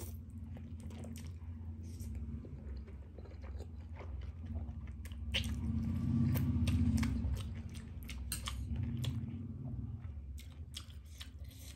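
A person chewing mouthfuls of ramen noodles, with many short wet mouth clicks and smacks. A low steady hum runs underneath and swells about six seconds in.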